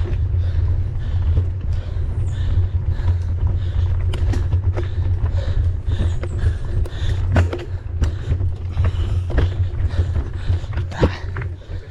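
Mountain bike riding fast over a rough trail: a steady low rumble of wind and vibration on the camera microphone, with scattered clicks and knocks from the bike rattling over the ground.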